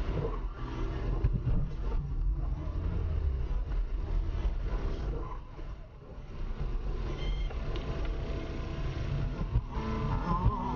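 Car driving: steady low engine and road rumble, briefly quieter about six seconds in.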